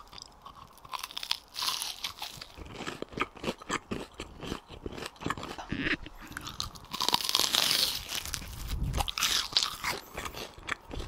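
Close-miked biting and chewing of cooled, starch-battered deep-fried pork (tangsuyuk), the crust crunching in many sharp crackles, with a denser, louder run of crunching about seven seconds in. The crunch shows the fried starch batter has stayed crisp about ten minutes after frying.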